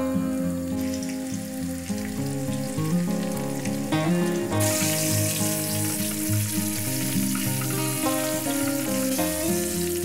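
Flour-coated chicken thighs sizzling in hot oil in a frying pan, the sizzle growing louder about halfway through. Background music with held notes plays underneath.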